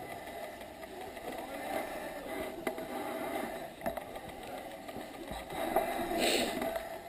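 Mountain bike riding over a wet forest trail: tyre rumble with rattles and clicks from the bike, and a short hiss about six seconds in.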